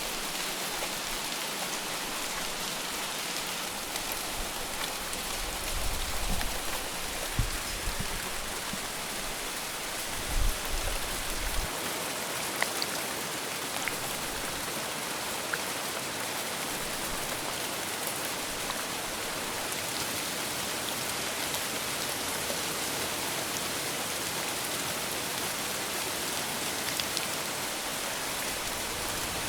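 Steady heavy rain falling, a dense even hiss, with a few short low thumps about six and ten seconds in.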